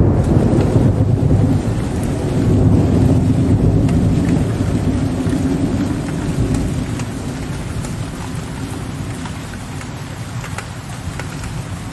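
Steady rain with drops ticking on a surface, under a low rolling rumble of distant thunder that is strongest in the first few seconds and then slowly dies away.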